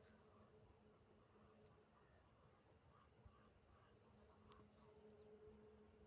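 Near silence with faint insects chirping, a high-pitched chirp repeating evenly about two or three times a second over a steady high-pitched trill.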